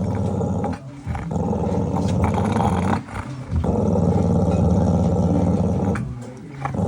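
Pit bull growling deeply: long, rough, sustained growls broken by short pauses about a second in, about three seconds in and again near the end.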